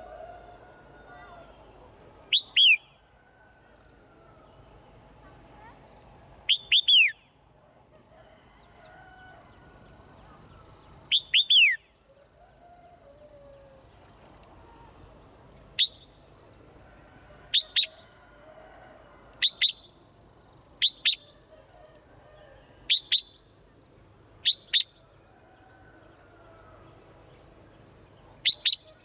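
Swallows chirping: sharp, high, falling chirps, some single and some in quick pairs, repeated about every two seconds, with fainter, lower bird calls beneath.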